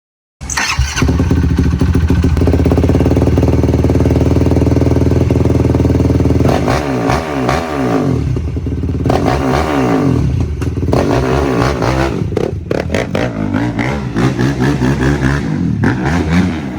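Yamaha YFZ450R's single-cylinder four-stroke engine through a Dasa Racing full exhaust system. It cuts in just after the start and runs steadily for about six seconds, then is revved again and again, its pitch rising and falling.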